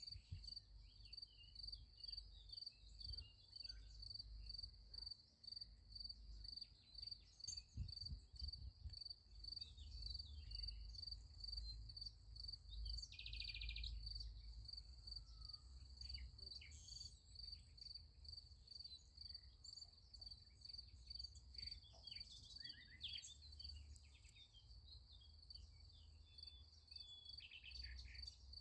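Crickets chirping in a steady rhythm of about three pulses a second, high-pitched and faint, with scattered short bird chirps over a low rumble.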